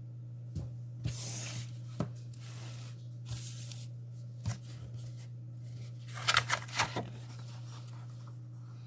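Paint-by-numbers supplies being handled at a table: scattered taps and clicks, two brief rustling scrapes early on, and a quick run of clicks about six seconds in, over a steady low hum.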